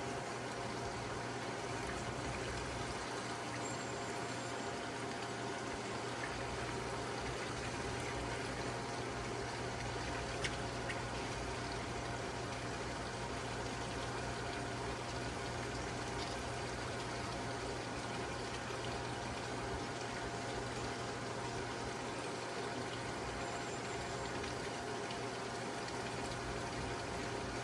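Steady rush of running water over a constant mechanical hum, with one brief click about ten seconds in.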